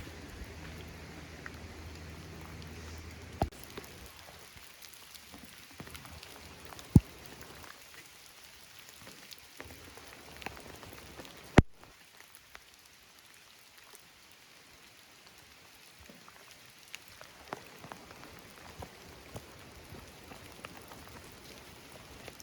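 Rain falling in a forest, steady with many small drop ticks. Three sharp knocks stand out in the first half, the loudest things heard.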